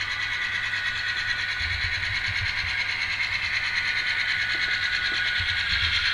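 Tiny onboard speaker of an N scale Atlas GP38-2 model playing its ESU LokSound decoder's diesel sound, a recorded EMD 645 two-stroke engine, thin and tinny, with its pitch easing down gradually and shifting again near the end. A low rumble from the running model comes and goes underneath.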